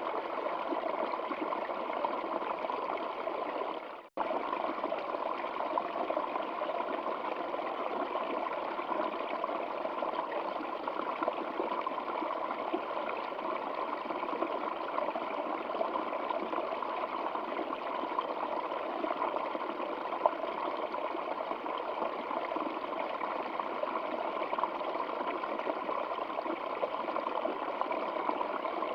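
Stream water flowing and trickling steadily, a continuous even rush; it cuts out for an instant about four seconds in, then resumes unchanged.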